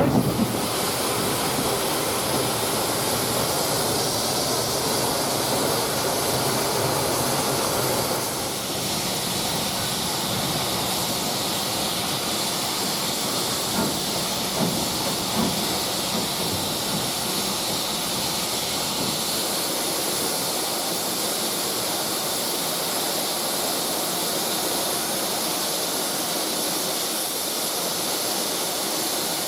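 Steam locomotive letting off steam: a steady, loud hiss that eases slightly about eight seconds in.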